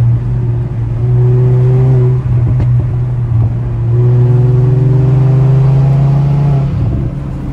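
Car engine pulling steadily in second gear, a loud drone at a fairly constant pitch. It dips briefly about two seconds in, climbs a little in pitch from about four seconds in, then eases off near the end.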